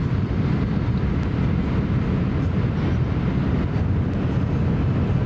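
Steady low rumble inside the passenger car of a Tokaido Shinkansen train running at speed.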